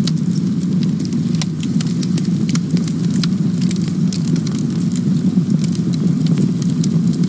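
Campfire crackling: frequent short pops and snaps, irregularly spaced, over a steady low rumble of burning wood.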